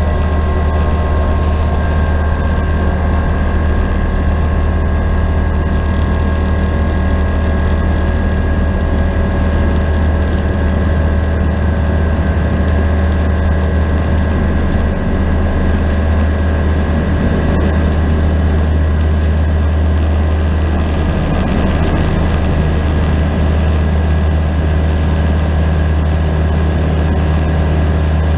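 Aquila A211's Rotax 912 four-cylinder engine and propeller running steadily at full takeoff power: a loud, even drone heard inside the cockpit through the takeoff run and initial climb.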